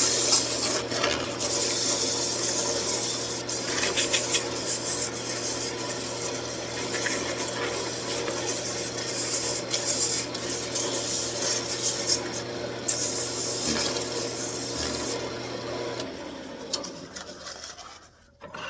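Wood lathe running with a turning tool cutting the spinning wood, a steady rasping over the motor's hum. The motor hum stops about 16 seconds in and the rasping dies away.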